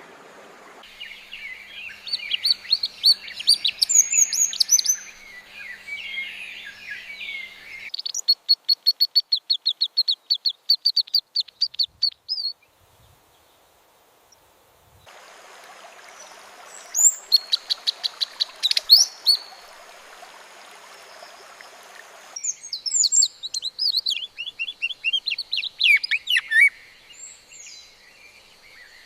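AI-generated birdsong in abruptly spliced segments: twittering song, then a fast, even run of repeated chirps for about four seconds, a couple of seconds of near silence, then more chirps and song phrases over a steady hiss.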